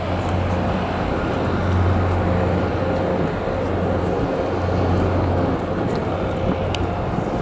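Steady low rumble of outdoor city background noise, with a faint steady hum above it.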